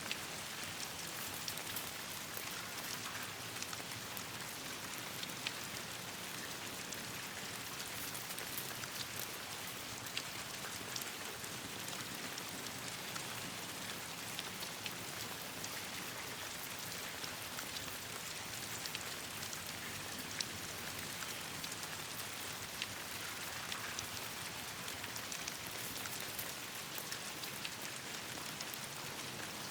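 Steady rain pattering on leaves and branches, with many scattered sharp ticks from individual drops.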